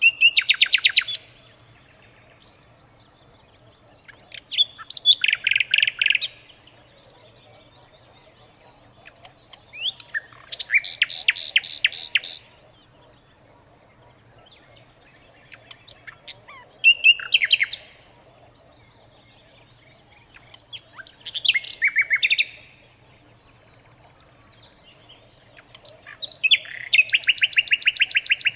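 A songbird singing: six separate phrases of quick chirps and rapid trills, each about two seconds long, coming roughly every five seconds.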